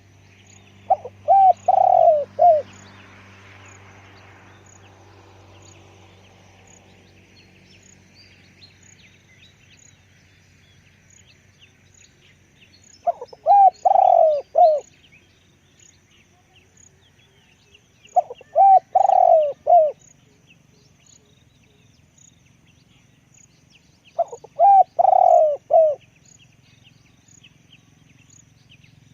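Spotted dove cooing: four phrases of a few quick, low, throaty notes each. The first comes right at the start, and the next three follow after a long pause, about five or six seconds apart. Faint chirping of small birds carries on between the phrases.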